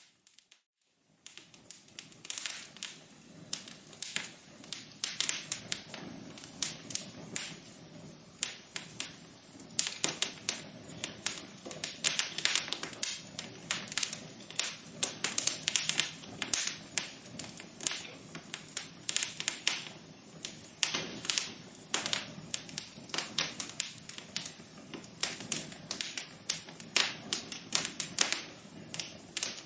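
Wood fire crackling in a fireplace: dense, irregular pops and snaps over a soft low hiss of burning. After a brief near-silent gap at the start, the crackling comes back in and runs on busily.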